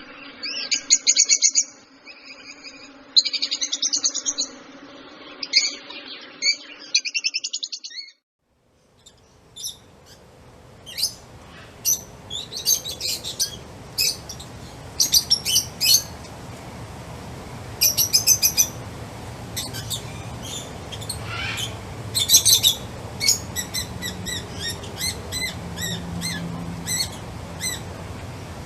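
Birds chirping in quick runs of short, high calls. About eight seconds in, the sound drops out for a moment, then another recording of birds takes over, with sharper repeated chirps over a background hiss.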